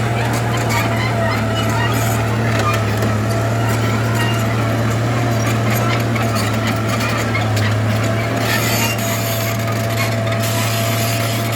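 Heavy earthmoving machine's diesel engine running steadily under load, a deep steady drone with a thin high whine held over it.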